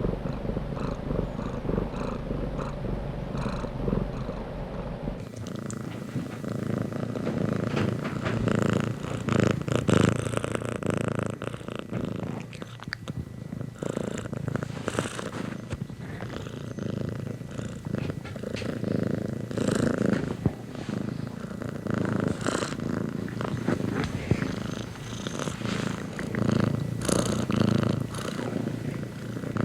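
Domestic cat purring continuously. A low hum underneath cuts off about five seconds in.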